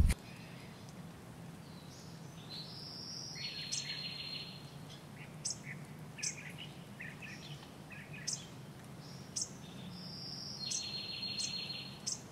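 Small songbirds calling: scattered short high chirps, and twice a longer phrase of a high note followed by a fast buzzy trill. A faint steady low hum lies underneath.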